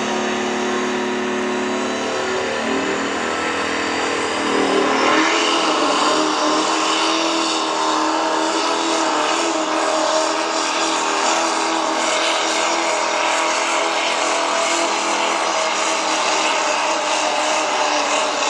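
Turbocharged diesel pulling truck's engine running under throttle with a high whistle over it, growing louder about five seconds in and then running hard at full power, as in a truck pulling the sled down the track.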